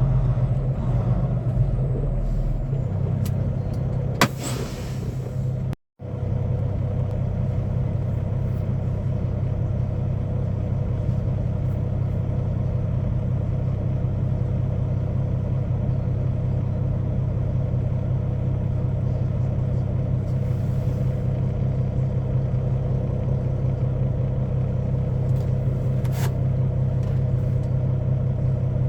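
Semi-truck diesel engine running steadily at low revs, heard from inside the cab. A click and a short hiss come about four seconds in, then the sound cuts out for an instant before the drone resumes.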